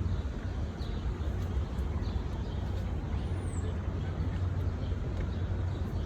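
Distant city traffic rumbling steadily, with one short high chirp about three seconds in.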